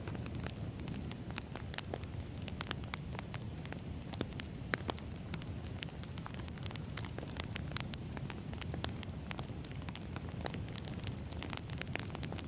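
Wood fire burning with a steady low rumble and irregular sharp crackles and pops of burning logs.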